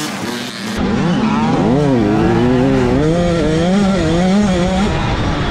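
Motocross dirt bikes running on the track, their engine pitch climbing and dropping repeatedly as the riders work the throttle.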